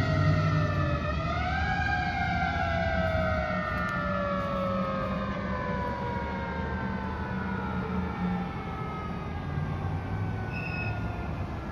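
Fire engine siren wailing, its pitch rising briefly about a second in and then falling slowly and steadily, with the truck's engine rumbling underneath.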